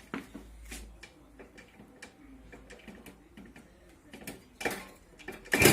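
Scattered light clicks and ticks, then near the end an engine fires suddenly and keeps running loudly. This is a cold start after four months of standing, catching on the first try.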